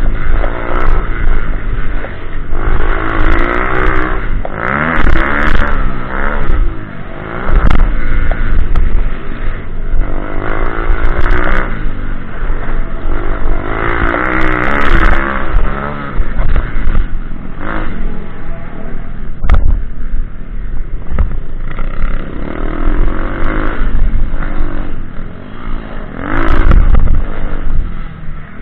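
Pit bike engine revving up and falling back over and over as it is ridden, with scraping and clattering knocks between the revs.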